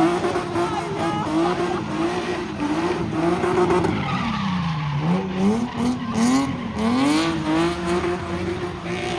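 A car spinning donuts with its engine held at high revs over screeching tyres. Near the middle the revs sag and then climb back up.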